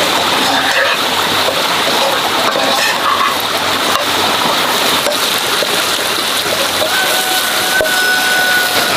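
Pork sausage slices and green beans sizzling steadily in a hot pan over a wood fire, with a metal ladle stirring through the food and giving a few light scrapes.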